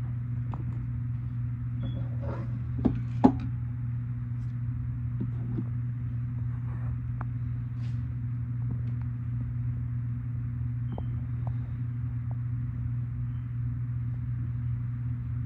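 Steady low background hum, with two sharp clicks close together about three seconds in and a few faint ticks after.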